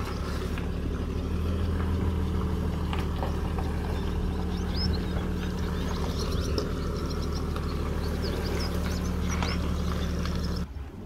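Engine of a four-wheel-drive running steadily at low revs as it reverses a boat trailer down a launching ramp; the hum cuts off suddenly near the end.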